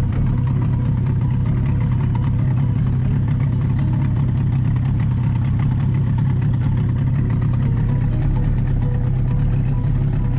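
Boat engine running steadily at an even speed: a constant low drone.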